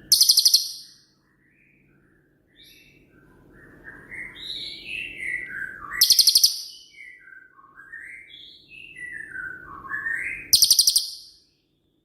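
Cililin songbird singing: three loud, very high rapid trills, the 'tembakan' phrases, at the start, about six seconds in and about ten and a half seconds in, with runs of whistled notes falling in pitch between them.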